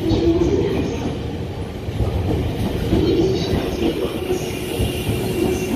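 JR 651-series limited express electric train departing, its cars rolling past close by with a steady rumble of wheels on the rails.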